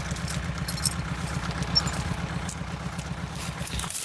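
An engine idling steadily with an even pulse, stopping abruptly near the end.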